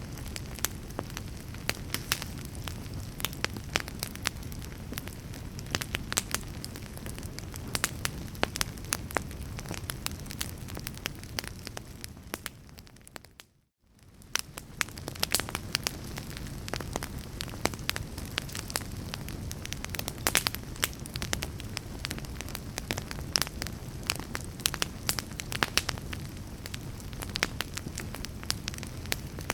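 Fire crackling: a steady low rumble of flames with frequent sharp pops and snaps. About halfway through, the sound fades out to silence for a moment and then fades back in.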